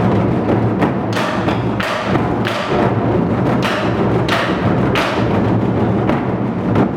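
Korean moduk-buk ensemble drumming: several buk barrel drums beaten in a dense, steady stream of deep strokes, with six sharp, ringing accented strikes coming at a regular pace between about one and five seconds in.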